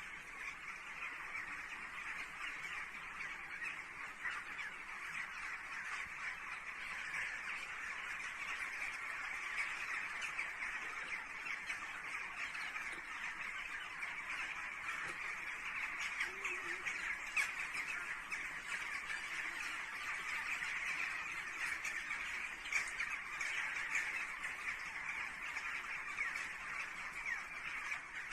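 A huge flock of birds calling all at once in a dense, unbroken din, taken by the uploader as frantic agitation shortly before an earthquake.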